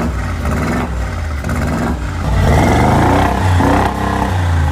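2022 Mercedes-AMG G63's twin-turbo V8 running through a new aftermarket exhaust system. It runs steadily, then is revved from about two and a half seconds in, the exhaust note rising and falling with several throttle blips.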